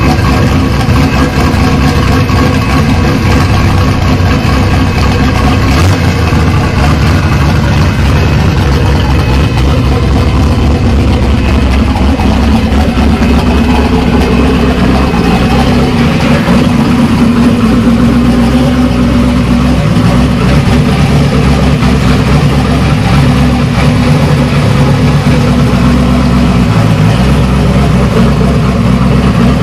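Twin-turbocharged LS1 V8 of a Pontiac Trans Am running at low revs while it is driven gently. The engine note is loud and steady, with small rises and falls in pitch through the middle.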